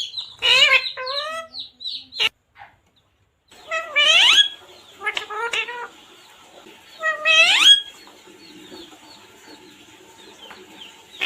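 Parrot calling in a series of squawks. The two loudest come about four and seven seconds in and each slides upward in pitch, with shorter calls between them. There is a brief silent gap about three seconds in.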